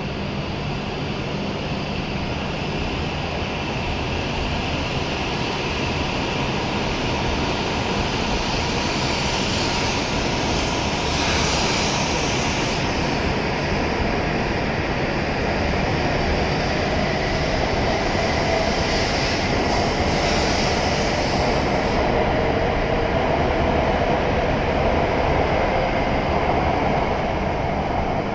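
E7 series Shinkansen pulling out of the station and gathering speed past the platform. The steady rush of the passing cars grows slowly louder, and a whine comes in during the second half as the rear cars go by.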